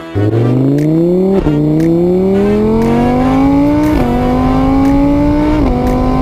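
Car engine accelerating hard through the gears. Its pitch climbs, drops at each of three gear changes (about 1.4, 4 and 5.7 seconds in), climbs again, then cuts off suddenly.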